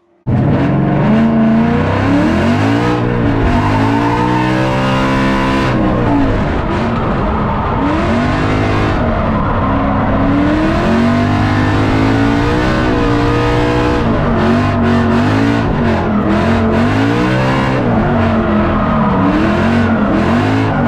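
Ford Mustang track car driven hard on a circuit, its engine revving up and dropping back again and again through gear changes and corners. The sound cuts out for a split second at the very start.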